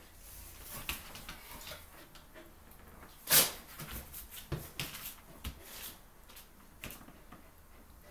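Two dogs, a chow chow and a Samoyed, play-fighting: scuffling with paws and bodies knocking and sliding, in short uneven bursts, the loudest a sharp knock about a third of the way in.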